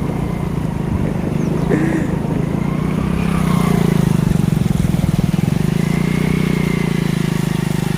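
Motorcycle engine running steadily at road speed, a low, fast-pulsing drone that grows a little louder about three seconds in.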